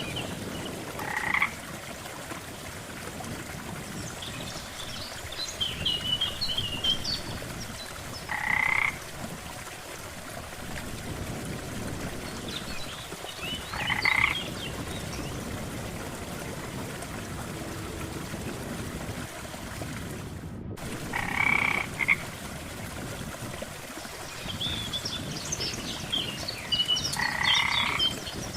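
Frogs croaking at a lake: one call with several stacked bands about every six seconds, with higher, thinner chirping calls in between, over a steady background hiss. The sound drops out completely for a split second about two-thirds of the way through.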